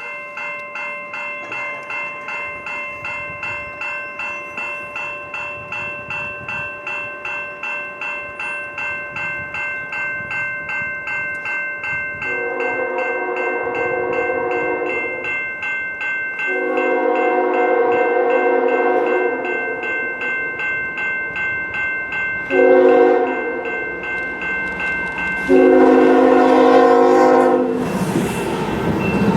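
Grade crossing bell ringing steadily, joined by a train horn sounding the crossing signal: two long blasts, a short one and a final long one. The train's noise rises as it reaches the crossing near the end.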